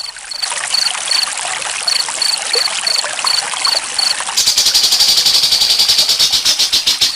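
Trickling water with crickets chirping: a regular high chirp about three times a second, then, a little over halfway through, a loud, fast-pulsed cricket trill takes over.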